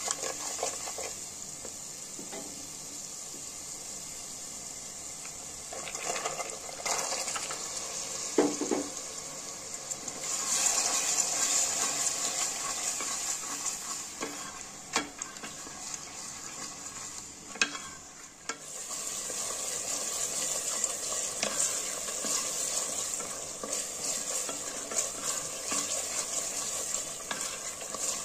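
Spiced masala sizzling in oil in an aluminium pressure cooker while a spatula stirs it, scraping and now and then tapping the pot. About ten seconds in the sizzle grows louder as chana dal (split chickpeas) goes in and is stirred through the masala.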